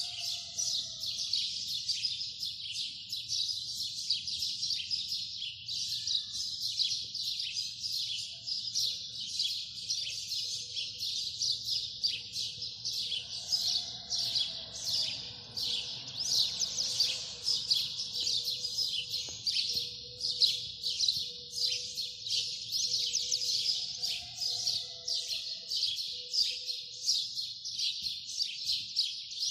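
A flock of small birds chirping together in a dense, continuous chatter of many overlapping short high chirps.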